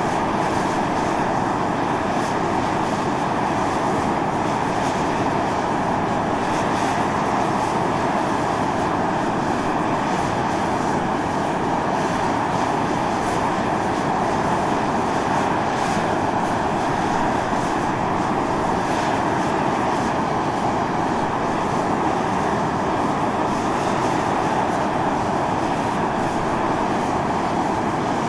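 Volcanic fumarole on Atosanupuri (Mt. Io) venting steam and gas, a loud, steady rushing hiss with no break.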